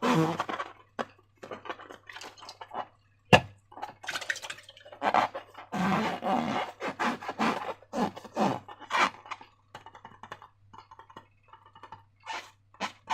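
Slime being squeezed and worked by hand with balloons, making irregular wet squelches and crackles with short squeaky notes, and one sharp snap about three seconds in.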